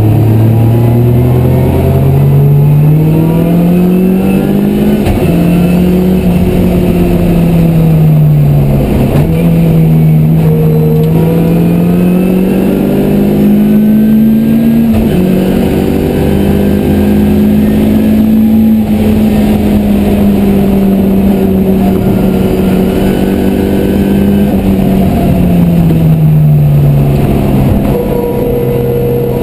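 Ford Zetec four-cylinder engine of a Mk1 Escort heard on board at full track pace. The engine note climbs and drops sharply several times with gear changes, holds high, then falls away near the end as the car slows.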